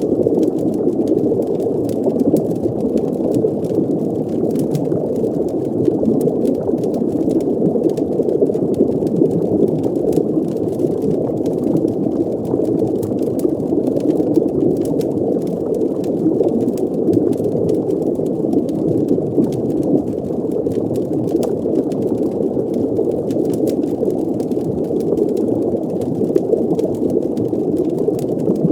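Steady, muffled underwater ambience: a deep, even rumble of moving water with bubbling, and faint scattered crackling clicks on top.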